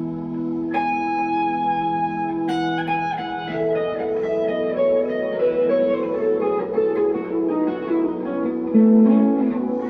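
1963 Fender Telecaster electric guitar played clean through delay and reverb: a held chord with a high note sounding over it about a second in, then a melodic line of single notes that ring into each other.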